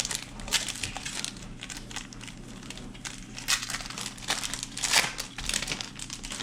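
A football trading card pack's wrapper crinkling and tearing as it is ripped open by hand, in irregular crackles that are loudest about three and a half and five seconds in.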